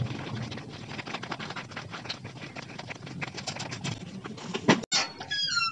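A dense, irregular crackling patter, then after a sudden break about five seconds in, birds chirping in short falling notes.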